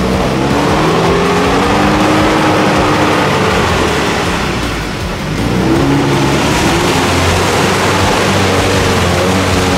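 Off-road 4x4 engine revving under load while driving, its pitch rising and falling, easing off about five seconds in and then picking up again.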